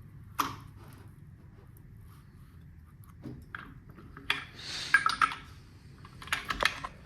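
Scattered metallic clinks and knocks of tools and engine parts being handled on an engine under rebuild, with a brief scraping hiss among a cluster of clinks about four to five seconds in and another cluster near the end.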